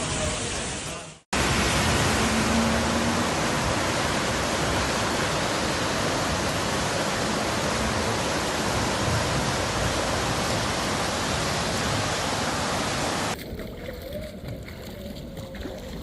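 Loud, steady rush of floodwater. It breaks off at a cut about a second in, resumes, and drops to a quieter, duller rush near the end.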